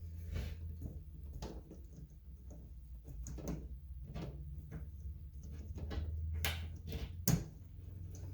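A metal retaining clip being worked into a Moen shower valve cartridge by hand: a series of small clicks and scrapes, with the sharpest click about seven seconds in.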